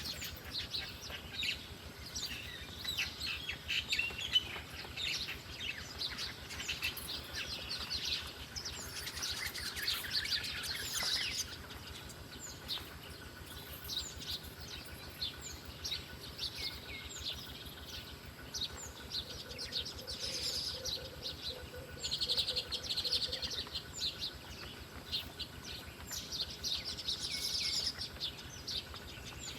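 Wild birds chirping and calling: many short, sharp chirps in quick succession, busiest in the first ten seconds or so and again around two-thirds of the way through.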